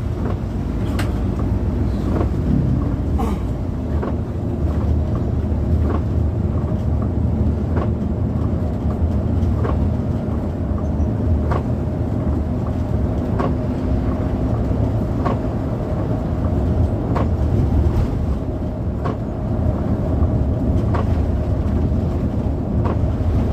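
Steady engine and road rumble of a moving bus, heard from inside the passenger cabin, with a short, sharp tick about once a second.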